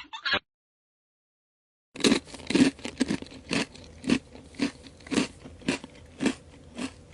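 Someone eating potato chips: crunchy bites and chewing, about two crunches a second, starting about two seconds in.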